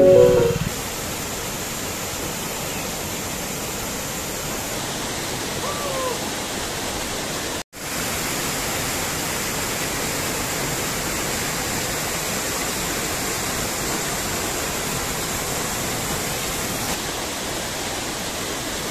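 Steady rushing noise of falling water, with one brief dropout about eight seconds in.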